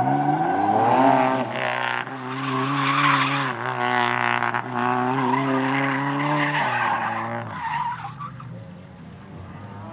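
Race car engine at high revs, its pitch climbing at first and held hard, with two loud bursts of skidding tyre noise. The engine note drops and fades away about eight seconds in.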